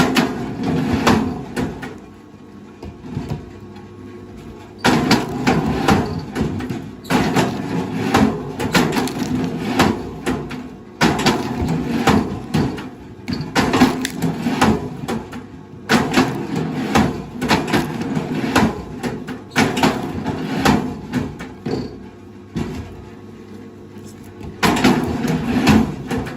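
Bursts of wooden knocking and clattering, each lasting a second or two with short lulls between, about eight times.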